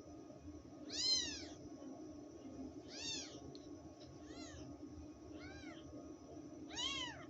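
Newborn kittens mewing: five high-pitched mews, each rising then falling in pitch, spaced a second or two apart, over a faint steady low hum.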